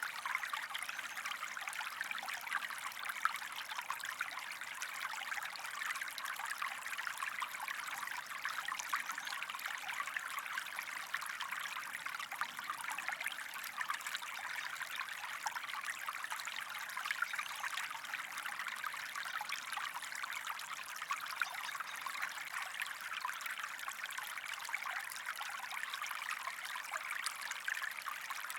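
Small stream flowing, a steady trickling babble of water with no change.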